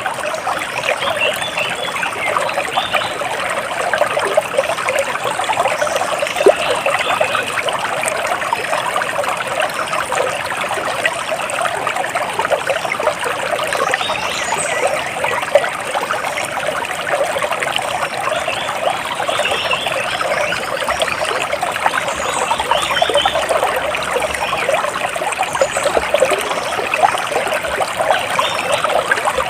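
Water splashing and trickling steadily, as a small stream or cascade, with occasional faint bird chirps above it.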